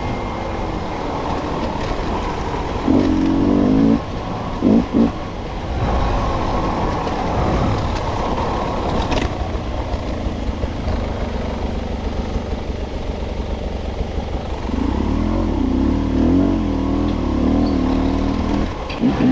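Dirt bike engine running steadily under way on a trail, its revs rising and falling as the throttle changes, most plainly about three seconds in and again over the last few seconds.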